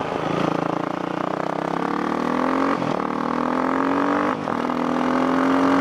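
Yamaha WR450F single-cylinder four-stroke dirt bike fitted with an FMF aftermarket exhaust, accelerating hard through the gears: the engine note rises, drops with an upshift about three seconds in, rises again, and shifts once more near the end.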